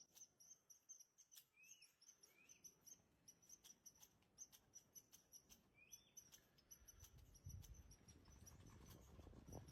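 Faint, rapid high-pitched chirping with small clicks from a small animal, a few short rising chirps among them, and a low rumble coming in over the last few seconds.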